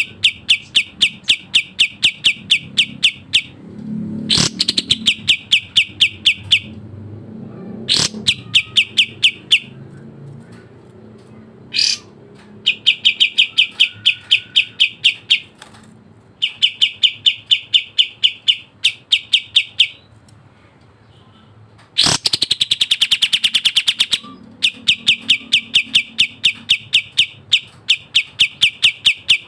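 Kapas tembak songbird singing fast, tightly packed runs of sharp, high chirps, about six a second, in stretches of a few seconds broken by short pauses. A couple of downward-sweeping notes cut in early, and about 22 s in it breaks into a denser, faster rattle for two seconds.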